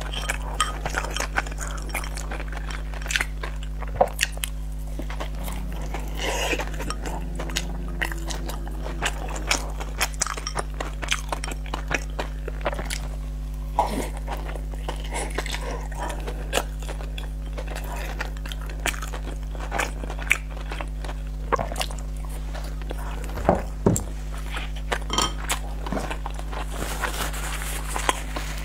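Close-miked chewing and lip-smacking of fatty pork, with sharp clicks throughout and occasional taps of chopsticks on a ceramic bowl, over a steady low hum. A paper tissue rustles near the end.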